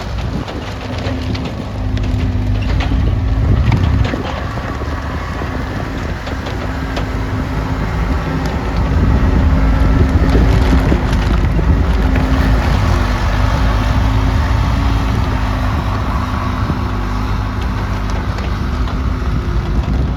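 Case 445 skid steer's diesel engine running, its note swelling and easing a few times, loudest past the middle.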